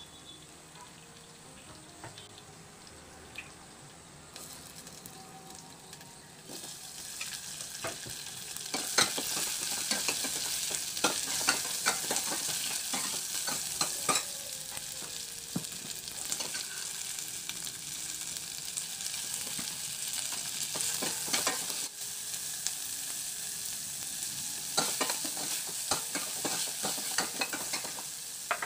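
Cumin seeds and sliced onions sizzling in hot oil in a stainless steel saucepan, stirred with a steel ladle that scrapes and clinks against the pot. The sizzling is faint at first and gets much louder from about eight seconds in.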